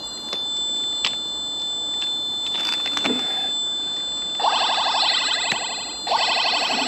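Electronic motion-sensor alarm going off, triggered by movement: a steady high tone, then from about four and a half seconds in, loud warbling bursts about a second and a half long that repeat with short gaps.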